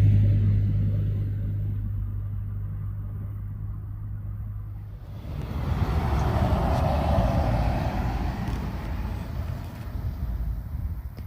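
Aircraft engine noise fading away after a loud pass, a low steady drone dying out over the first few seconds, then a second swell of rumble that rises about halfway through and fades again.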